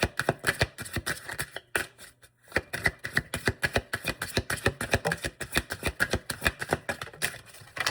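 A deck of oracle or tarot cards being shuffled by hand: a quick run of papery card clicks, with a short pause about two seconds in.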